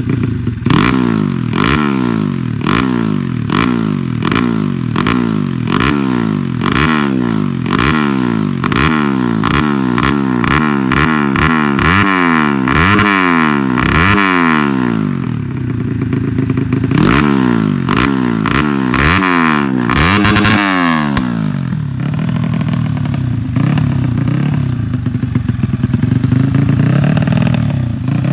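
Honda C70-based four-stroke engine enlarged to 180cc being revved in quick repeated blips, its pitch rising and falling back about one and a half times a second. For the last several seconds it runs more steadily.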